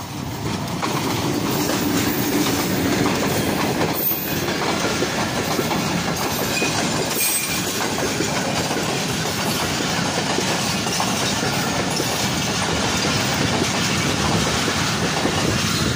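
Pakistan Railways diesel-hauled passenger train passing close by: a steady, loud rush of the locomotive and then the coaches' wheels running over the rails, swelling about a second in as the train reaches the crossing.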